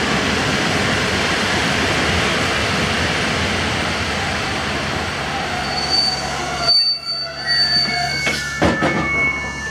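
PKP Intercity passenger coaches rolling slowly past and slowing to a stop, their wheels and brakes giving a high-pitched squeal with pitches that slide in the second half. The rolling noise drops away suddenly about seven seconds in, and there are a couple of sharp clanks near the end.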